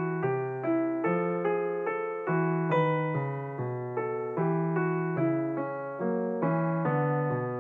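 Background piano music: a steady run of notes, about two or three a second, each struck and fading before the next.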